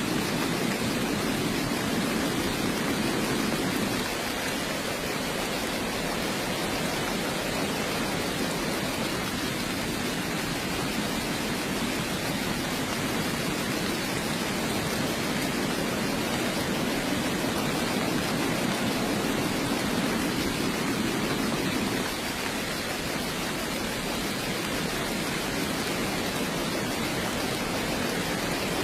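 Heavy rain falling steadily, an even hiss with slow swells in its lower part.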